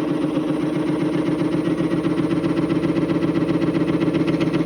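Wood lathe running at low speed, a steady motor hum with a fast, even pulse.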